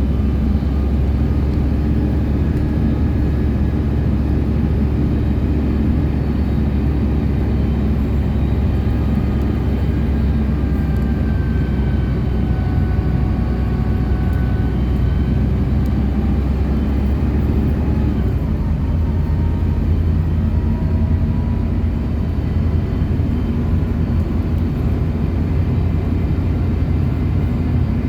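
City bus under way, heard from inside the cabin: a steady low drone of engine and road noise. The low engine note changes pitch about two-thirds of the way through.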